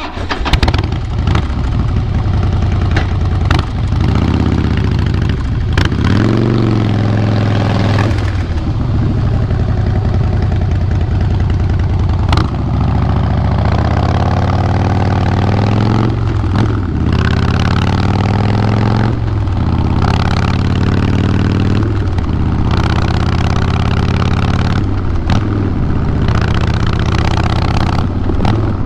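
Harley-Davidson Fat Boy Lo's fuel-injected Twin Cam 96B V-twin, through a Vance & Hines Big Radius 2-into-2 exhaust, coming in loud at the start and then running, its revs rising and falling several times.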